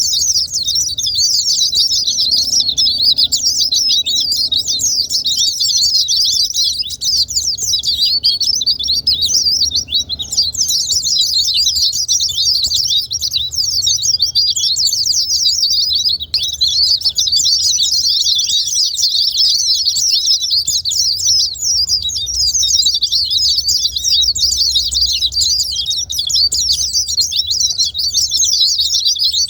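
White-eyes (pleci) singing in a dense, unbroken stream of rapid, high-pitched twittering that never pauses; the song is used as a lure to set caged white-eyes singing.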